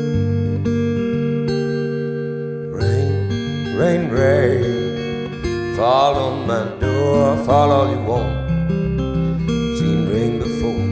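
Acoustic guitar playing sustained, strummed chords. From about three seconds in, a wavering melody line with strong vibrato rises over it in several phrases.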